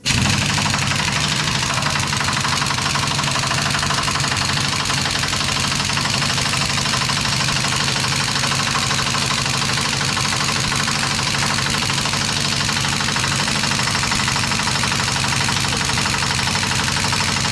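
Impact wrench hammering steadily and rapidly for about seventeen seconds on a stubborn bolt in an old truck frame, cutting off suddenly at the end; the bolt does not come free.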